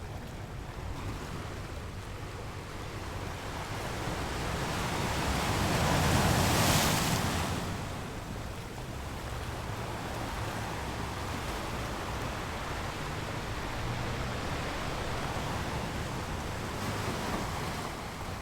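Sea surf on a sandy beach: a wave swells and breaks in a loud rushing hiss about six to seven seconds in, then eases back to a steady wash of water.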